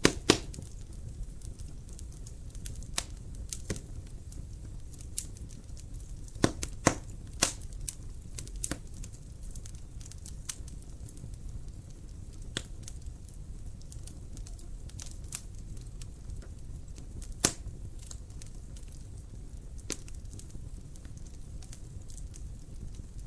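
Wood fire crackling in a fireplace: irregular sharp pops and snaps over a steady low rumble of the flames. The loudest pops come right at the start, in a cluster about six to eight seconds in, and once more just past halfway.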